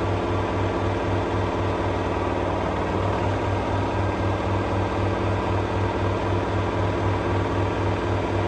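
LG F1222TD front-loading washing machine on its full-speed final spin: a steady motor-and-drum hum with a low throb pulsing about four times a second.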